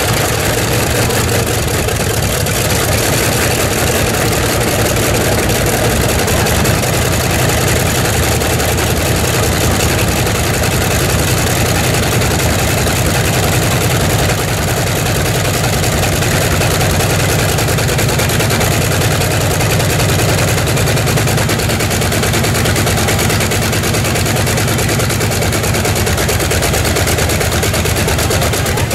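Tractor-pulling machine's radial aircraft engine running loud and steady.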